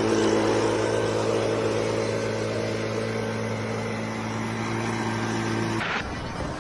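An engine running at a steady speed, with a constant low hum. It cuts off abruptly about six seconds in, giving way to a quieter noise.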